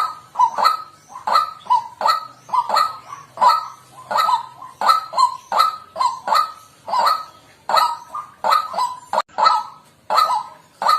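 White-breasted waterhen calling: a steady series of loud, harsh honking notes, about three every two seconds.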